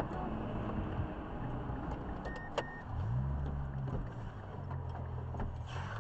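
Car engine and road noise heard from inside a vehicle: a steady low hum that grows fuller about three seconds in. A short high beep sounds twice about two and a half seconds in.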